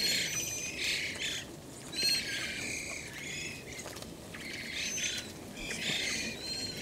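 A flock of varied thrushes calling over one another in a dense, overlapping racket of trills and warbling notes.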